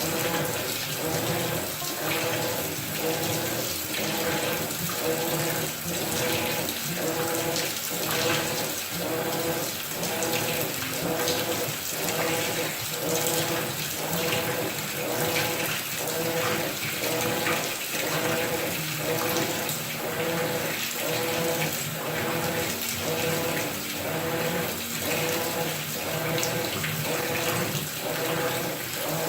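Maytag top-load washer agitating a load in water: the motor hum and the water sloshing rise and break off in an even rhythm of strokes, a little over one a second.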